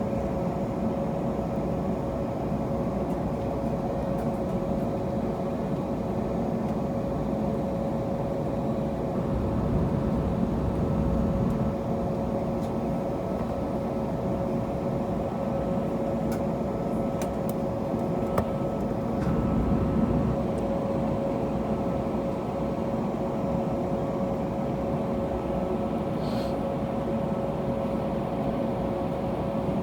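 Cabin noise of an Airbus A321neo on the ground before takeoff: its Pratt & Whitney PW1100G geared turbofans run at low, steady power, a constant hum with one clear steady tone over a low rumble. The rumble swells gently twice, about ten and twenty seconds in.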